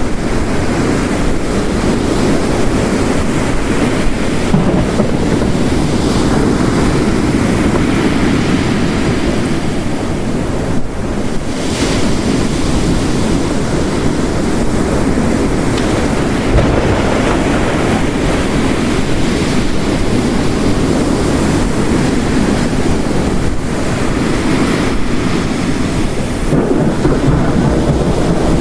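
Layered storm ambience: ocean waves breaking and surging steadily against a rocky shore under heavy rain, with low rumbles of distant thunder.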